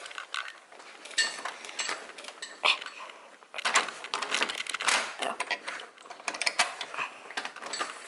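Irregular clattering and rustling of objects being handled: a quick, uneven run of clicks and knocks that gets busier about halfway through.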